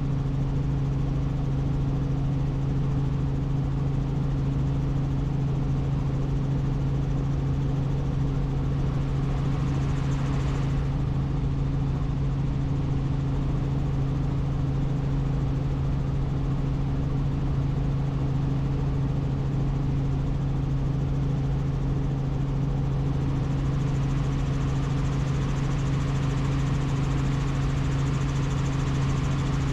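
Helicopter in flight: a steady drone with a strong low hum that holds level without change.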